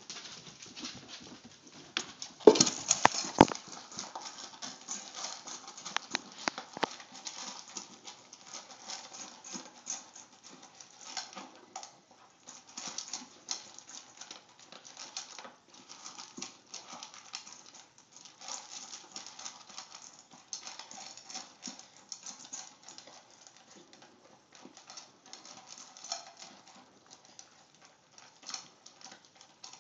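A dog wolfing down dry food fast: rapid, irregular crunching and clicking that goes on throughout, with the loudest crunches about two to three and a half seconds in.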